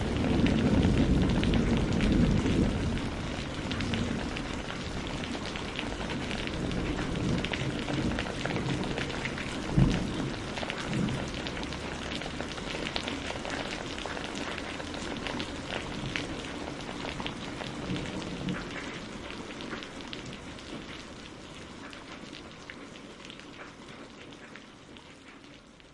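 Steady rain falling, with a low rumble in the first few seconds and one short low thump about ten seconds in; the rain gradually fades out toward the end.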